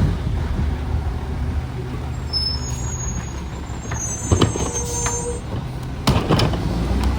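Garbage truck engine running steadily, with a few sharp clanks in the second half.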